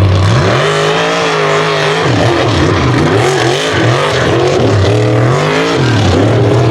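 Unlimited-class mega truck engine revving hard under racing throttle. Its pitch climbs about half a second in and holds, then rises and falls over and over as the throttle is worked, settling lower near the end.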